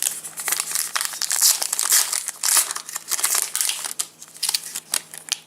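Foil trading-card packet crinkling in the hands as it is handled and opened, a dense run of irregular crackles.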